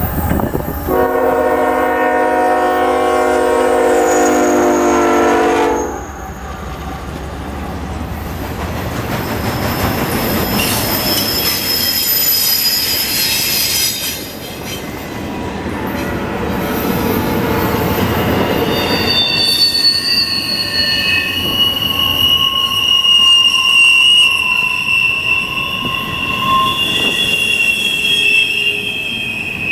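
CSX intermodal container train passing: the locomotive horn sounds one long chord for about five seconds and cuts off, then the cars roll by with a steady rumble, and from about two-thirds of the way through, the wheels give off a steady high-pitched squeal.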